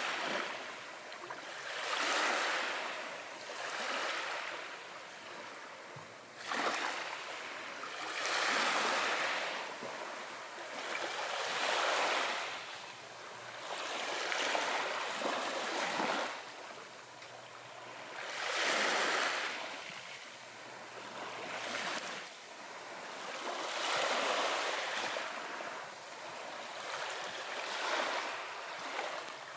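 Ocean waves washing in, the surf swelling and fading again every few seconds in a gentle, irregular rhythm.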